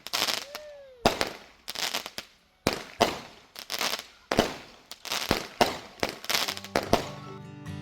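Consumer fireworks going off: a string of sharp bangs, about two a second, each trailing off with a crackle. Music comes in near the end.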